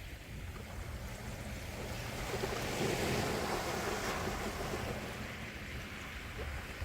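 Gentle sea waves washing onto the shore, one wave swelling up around the middle and easing away, over a steady low rumble of surf.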